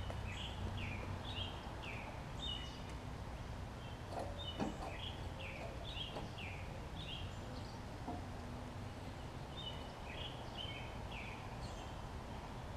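A songbird singing phrases of short, quick down-slurred notes, repeated every couple of seconds, over a low steady outdoor rumble. A few faint taps are heard about four and a half seconds in and again near eight seconds.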